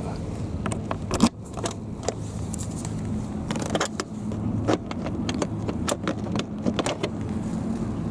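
Yamaha YZF-R25 parallel-twin engine idling steadily through its Akrapovic exhaust, with a scatter of sharp clicks and taps over it; the loudest knock comes a little over a second in.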